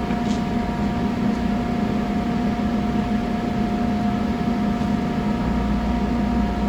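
A steady mechanical hum with a couple of fixed whining tones, unchanging throughout, like a fan or ventilation unit running.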